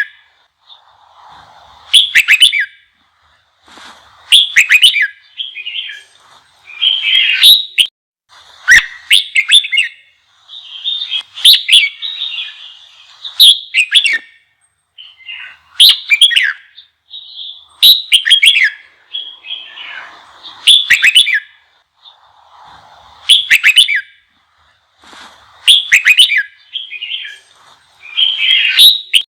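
Red-whiskered bulbul singing an intense challenge song: short, loud whistled phrases repeated about every two seconds, with softer chatter between them. This is the aggressive song used to provoke newly caught bulbuls.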